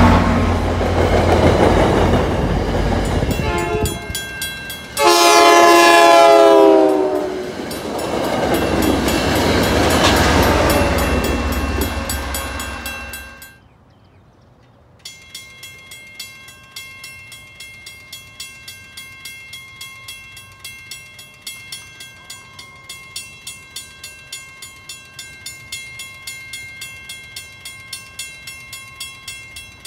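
A diesel-hauled commuter train's coaches roll past, with a train horn sounding a loud chord for about two seconds around five seconds in. The train noise then dies away, and after a break a grade-crossing bell rings steadily, about two strikes a second.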